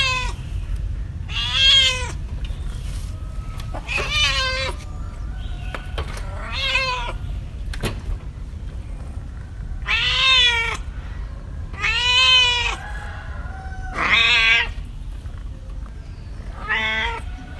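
A cat meowing over and over, about eight separate drawn-out meows a second or two apart, each rising and then falling in pitch, with a steady low hum underneath.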